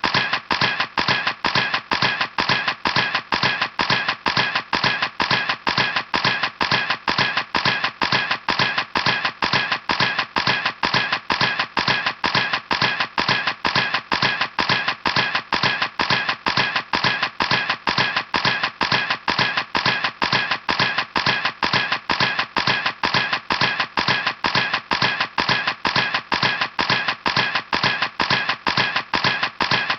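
Camera clicking in a steady, even rhythm, about two to three sharp clicks a second.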